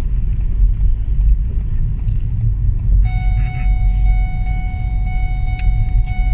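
Steady low rumble of a car driving in snow, heard from inside the vehicle. About halfway through, a steady high tone with overtones starts and holds.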